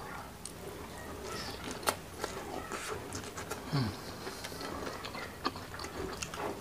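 Close-miked eating sounds: chewing on a mouthful of rice and spicy fish, with irregular sharp wet smacks and clicks of the mouth.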